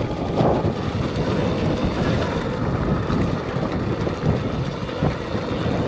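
Riding noise from an electric dirt bike on a dirt trail: wind buffeting the microphone over a steady, uneven rumble of the bike and tyres over the ground, with no engine note.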